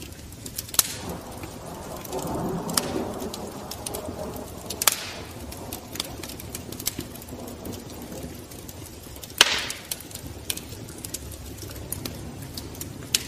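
Wood fire crackling: irregular sharp crackles and pops, a few of them louder, about a second, five seconds and nine and a half seconds in.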